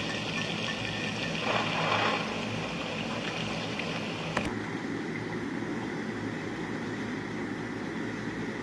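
Steady rain. A sharp click comes about four seconds in, after which the rain sounds duller.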